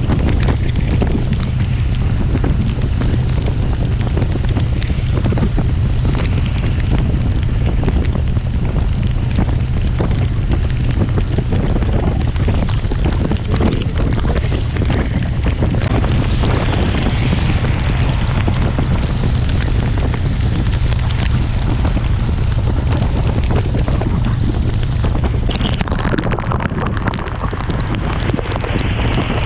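Heavy wind buffeting on the microphone of a motorcycle at expressway speed in a torrential downpour. It is a loud, steady low rumble, spattered throughout with the crackle of rain striking.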